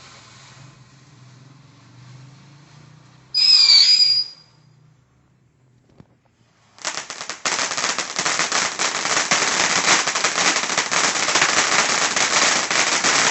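A loud whistle lasting about a second, three seconds in. Then, about seven seconds in, a Joyful Bird firework fountain starts up, crackling loudly and densely without a break.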